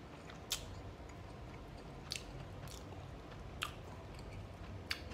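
A person chewing a mouthful of beef fried rice, faintly, with a few short wet mouth clicks about a second or so apart.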